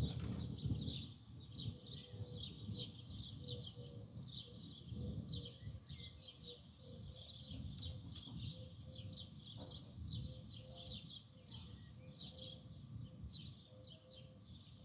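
Small birds chirping, a quick string of short, high chirps repeated over and over, above a low background rumble.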